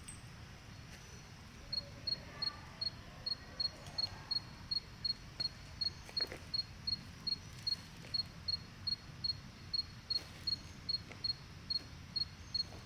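A cricket chirping in an even rhythm, about two short high chirps a second, starting about two seconds in, over a low steady hum.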